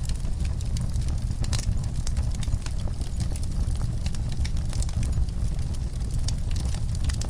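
Wood fire burning in a fireplace, crackling with many sharp, irregular pops and snaps over a steady low rumble.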